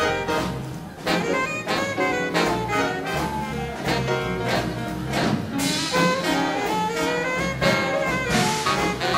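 Big band playing hot swing jazz: trumpets, trombones and saxophones in full ensemble over a steady, driving beat.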